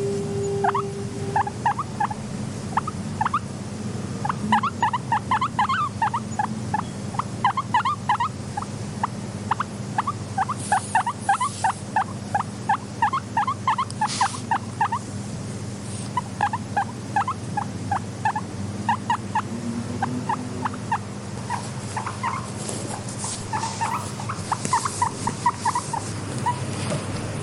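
Guinea pigs squeaking in quick runs of short, rising notes, several a second, with patches of scratchy rustling now and then.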